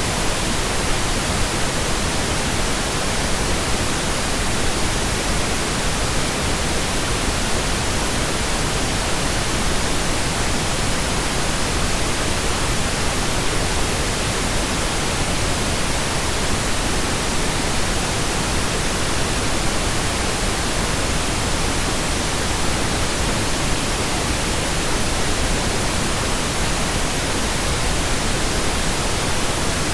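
Steady synthetic pink noise generated in Audacity: an even, unchanging hiss across the whole range of pitch.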